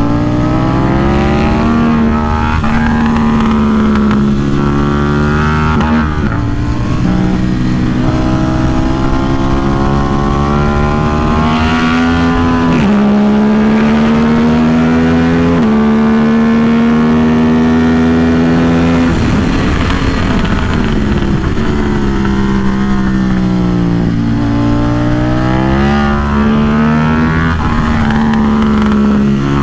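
KTM RC8C's parallel-twin engine pulling hard through the gears, its pitch climbing and then dropping sharply at each upshift. About two-thirds of the way through it falls away as the bike slows, then climbs again through more upshifts.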